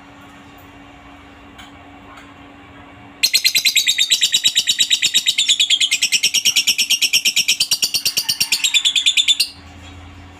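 Lovebird giving a long ngekek, a loud, rapid chattering trill of fast repeated high notes, starting about three seconds in and lasting about six seconds before stopping abruptly.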